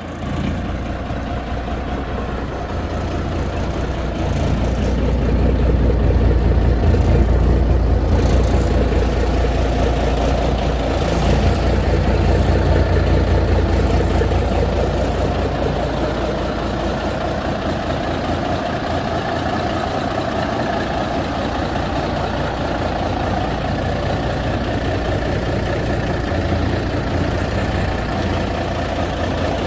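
1952 Peterbilt cabover truck's engine running steadily with a deep low rumble. It grows louder a few seconds in, eases, swells again briefly near the middle, then settles to an even run.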